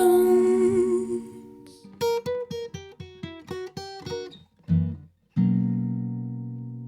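Acoustic guitar picks a quick run of short single notes, then strikes one final strummed chord about five seconds in that rings out and slowly fades. It opens on the fading tail of the last sung note.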